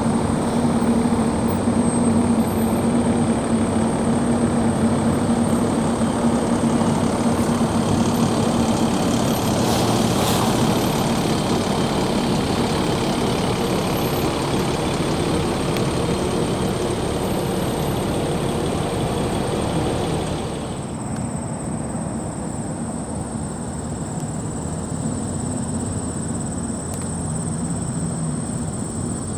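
A steady engine-like drone with a low hum and a thin high whine; its upper part drops off suddenly about twenty seconds in.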